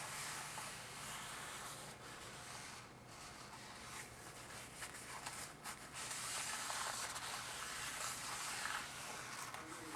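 Soft rustling and rubbing with a few light clicks, from hands handling greasy transmission parts.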